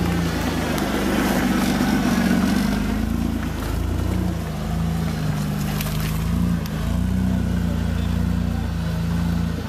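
Diesel engine of a competition trial truck running under load, its engine speed rising and falling several times.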